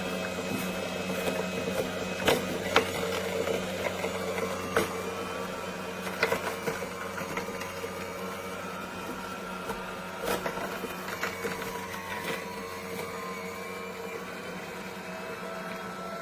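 AMZCHEF cold-press slow juicer running, its motor humming steadily while the auger crushes produce, with sharp cracks now and then, louder in the first half.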